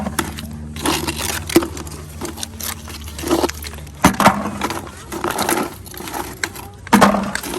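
Clam and oyster shells clacking together as they are handled and counted by hand, a scatter of sharp clicks and knocks. A low steady hum runs under the first half.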